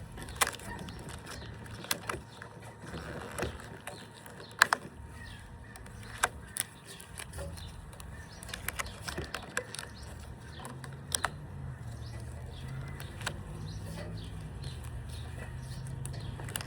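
Rubber bands being stretched onto a watermelon one at a time, each landing on the rind with a short sharp snap, every second or few, the loudest about a third of the way in. A low steady hum runs underneath.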